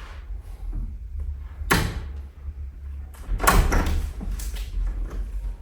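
A room door being worked at: a sharp bang a little under two seconds in, then a longer, louder clatter around three and a half seconds, over a steady low rumble.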